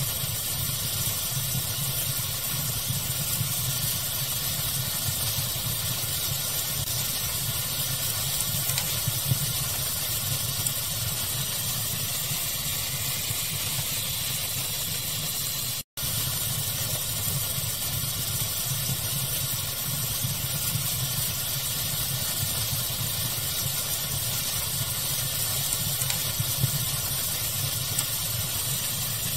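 Steady pink-noise hiss blended with a crackling fire, with a few slightly louder crackles. The sound drops out for an instant about halfway through.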